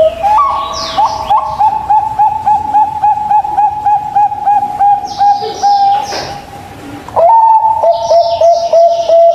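Zebra doves (perkutut) cooing: long runs of rapid, evenly repeated soft coo notes, breaking off briefly about two-thirds through and then starting again. Short high chirps from smaller birds come in near the start, in the middle and near the end.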